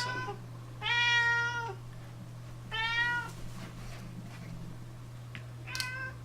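A house cat meowing three times: a long drawn-out meow about a second in, a shorter one near the middle, and a brief one near the end.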